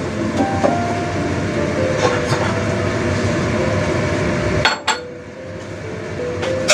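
Eggplant and minced meat cooking in a steel wok on a gas burner: a steady, dense frying rumble that cuts off abruptly about two-thirds of the way through, with a sharp click. Soft background music plays throughout.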